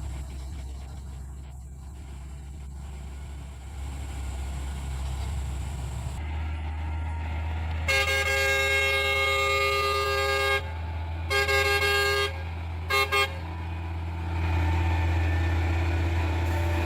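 Low, steady engine rumble of traffic on the climb, with a vehicle horn sounding over it: one long blast of about three seconds, a shorter blast, then two quick toots.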